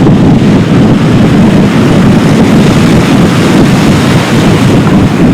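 CH-47 Chinook helicopter's rotors and turbine engines running close by, a loud steady noise, with wind buffeting the microphone.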